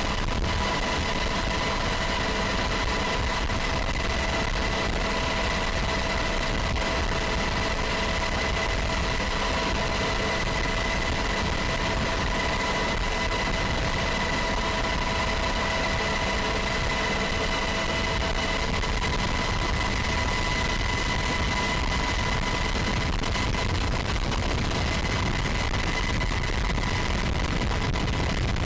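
Steady machine drone: a low rumble with several steady whining tones over it, one of the lower tones dropping out about two-thirds of the way through.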